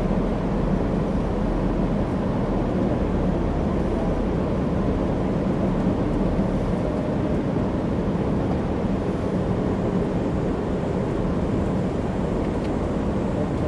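Steady rumble of a moving passenger train heard from aboard: wheels running on the rails and the car's body noise, unbroken and even.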